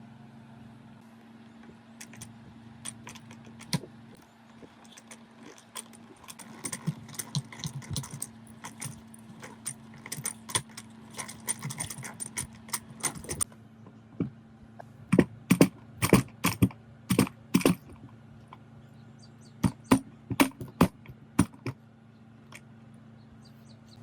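Metal parts and tools clinking and knocking together as a rusty steering gearbox is worked on. First comes a run of light clinks, then two bursts of louder knocks in quick succession, over a steady low hum.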